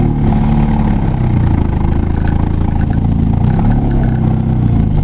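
Vehicle engine accelerating after pulling away from a stop, heard from inside the cab; its note rises and falls as it speeds up.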